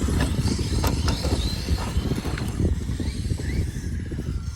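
Steady low rumble with scattered clicks and rattles, mechanical in character.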